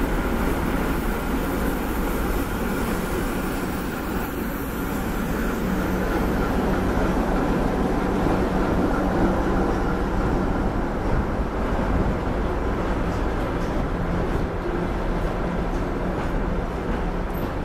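Russian Railways passenger coaches of an arriving long-distance train rolling past on the near track: a steady rumble of wheels on the rails.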